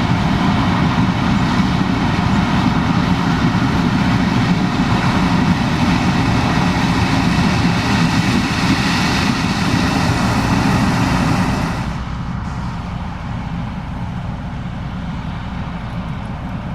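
Case IH 2366 combine running steadily, a loud engine and machinery drone with a broad hiss over it. About twelve seconds in the hiss cuts out abruptly and the sound drops to a quieter, duller drone.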